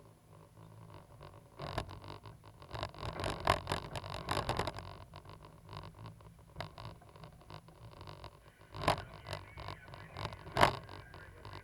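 Cat 320GC excavator's diesel engine running steadily, with irregular knocks and scrapes over it; the loudest sharp knocks come near 9 and 10.5 seconds.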